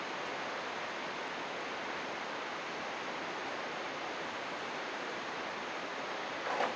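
Steady rush of flowing river water, an even babble without a break. A brief louder sound rises out of it near the end.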